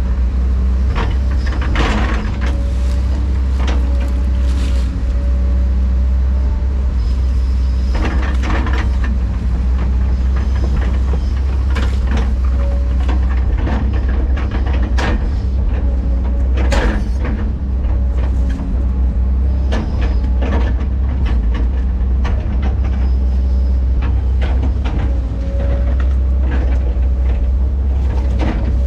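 Diesel earthmoving machine running steadily under load, with frequent short clanks and scrapes of rock and dirt against steel.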